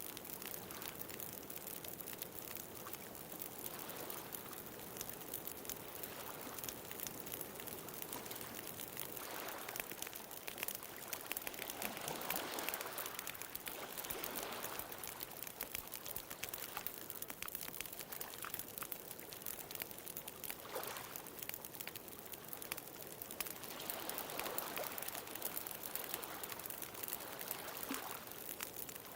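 Bonfire crackling with frequent sharp pops and snaps over ocean waves that swell and wash in a few times.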